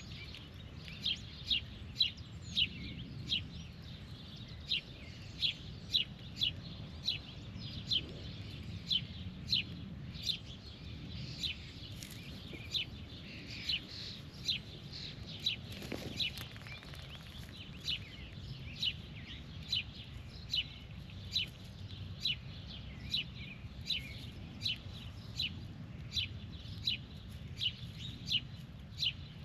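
A bird chirping over and over, short sharp chirps about two to three a second with a few brief pauses.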